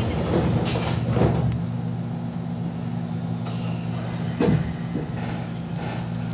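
Running noise inside a Nishitetsu 2000 series electric train car: a steady low hum with a few short knocks from the wheels and car body, the loudest about four and a half seconds in.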